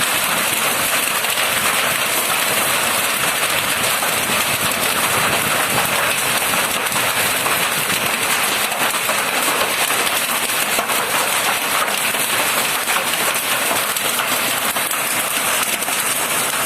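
Heavy rain falling steadily and densely, with hailstones striking among the drops as scattered sharp ticks.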